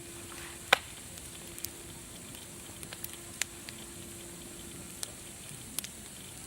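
Wood fire crackling: scattered sharp pops over a steady hiss, the loudest pop about a second in.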